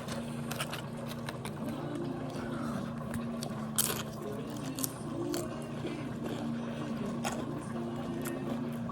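Corn tortilla chips crunching as they are bitten and chewed: a few short, sharp crunches, the loudest about four seconds in, and another near five seconds.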